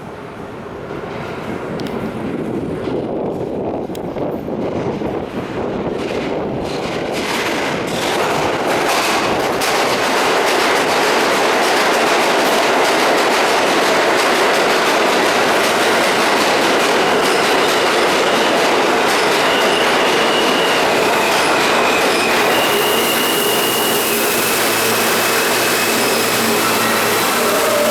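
R160 subway train pulling into a station: wheels clicking over rail joints as it grows louder over the first ten seconds, then a steady loud rumble of wheels on rail. High thin squeals come and go in the second half.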